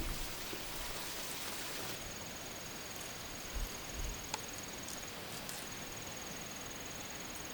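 An insect's steady high-pitched trill that starts about two seconds in and breaks off briefly once, over a steady background hiss, with a couple of soft low thumps.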